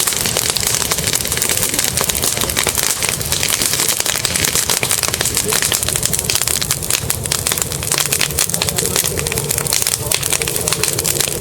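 Bonfire crackling: a dense, steady run of small snaps, many each second.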